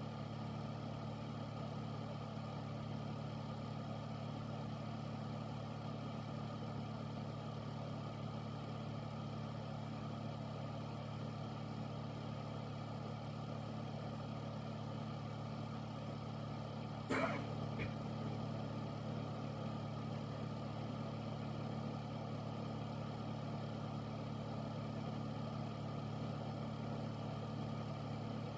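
Air filter fan running with a steady hum and whoosh. A single sharp click, with a faint second tick just after, sounds about two-thirds of the way through.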